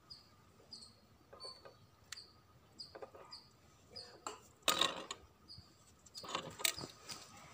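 A small bird chirps over and over, a short high chirp about every two-thirds of a second. A knife knocks and scrapes on a wet concrete floor as chicken giblets are cut, loudest about halfway through and again near the end.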